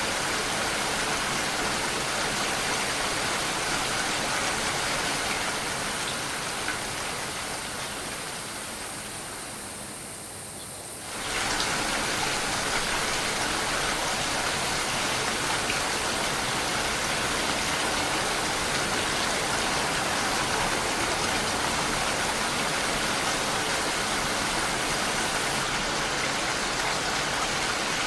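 Steady heavy rain with no separate drops standing out. About a third of the way in it fades gradually for several seconds, then comes back suddenly at full level.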